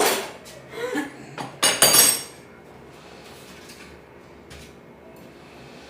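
Metal stove parts clinking and clattering as they are handled, a few knocks in the first two seconds with the loudest clatter near the end of them, then a quiet steady background.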